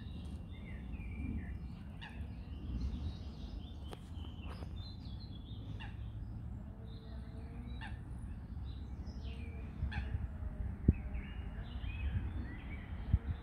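Birds chirping and calling over a steady low rumble of wind on the microphone, with a couple of sharp clicks near the end.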